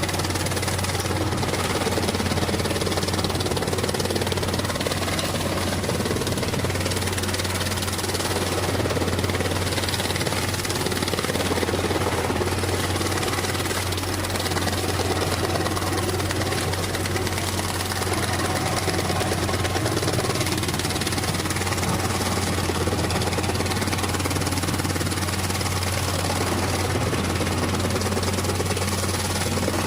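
Massey Ferguson 241 tractor's diesel engine running steadily under load, driving a PTO-powered banana-stem shredder, with a constant low hum under a broad mechanical din.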